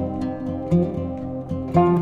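Background music: plucked string instrument, like an acoustic guitar, playing a calm melody with notes struck every fraction of a second.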